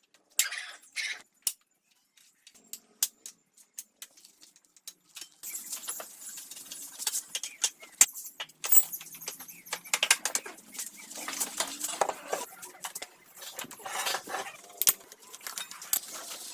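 Irregular clicks, taps and scraping of hand tools and metal parts being handled, sparse at first, then busier from about a third of the way in.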